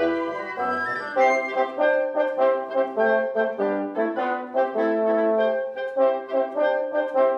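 Wind quintet of flute, oboe, clarinet, horn and bassoon playing live chamber music: a brisk passage of short, separated notes in several parts at a steady pulse.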